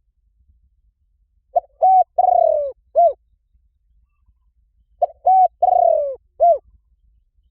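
Spotted dove calling: two cooing phrases about three seconds apart. Each phrase is a quick short coo or two, then a long falling coo, then a short final coo. It is the call used as a lure to draw wild spotted doves.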